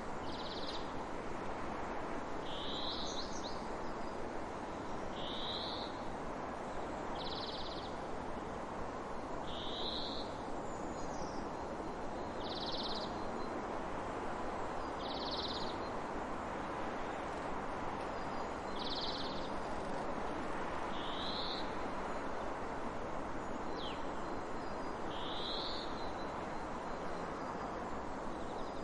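A bird repeating a short, high call about every two seconds over a steady rushing background noise.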